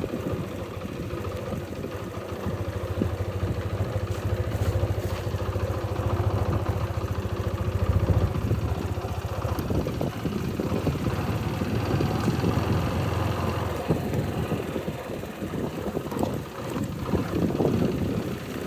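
Motorcycle engine running steadily as the bike is ridden, a low drone that is strongest through the first half.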